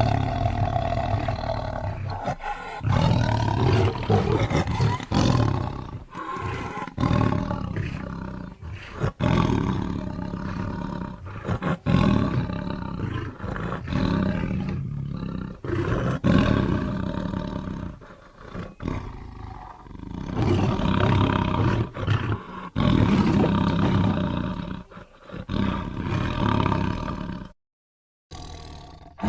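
Custom-made honey badger creature sound effects: a string of roars and growls, each a second or two long with short pauses between, broken by a brief dead silence near the end.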